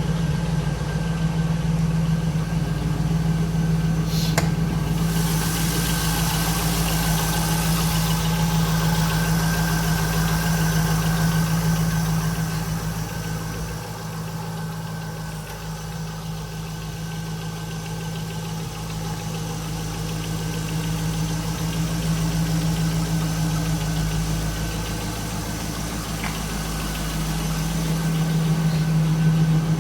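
2002 Camaro SS's 5.7-litre LS1 V8 idling steadily at an even, unchanging pitch while it warms up after a cold start. It gets quieter for several seconds midway and louder again near the end, with a single click about four seconds in.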